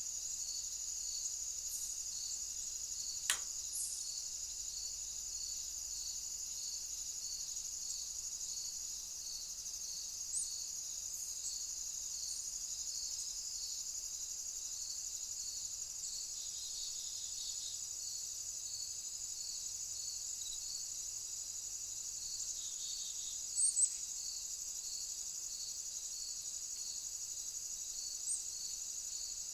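Chorus of insects: a steady high-pitched shrill with a softer chirp repeating a little more than once a second. A single sharp click comes about three seconds in, and a pair of brief high chirps comes near twenty-four seconds.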